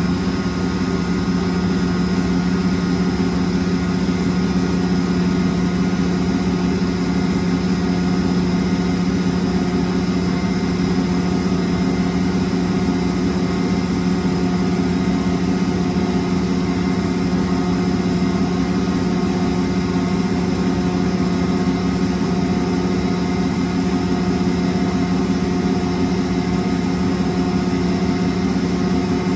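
Miele WS 5508 professional washing machine running in its wool programme: a steady motor hum at one constant pitch with a faint higher whine over it, unchanging throughout.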